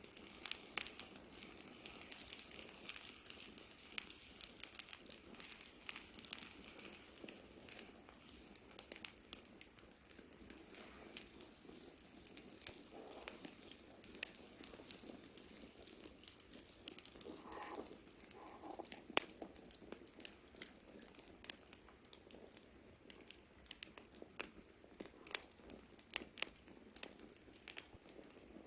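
Campfire crackling: a dense, irregular run of sharp pops and snaps over a faint hiss.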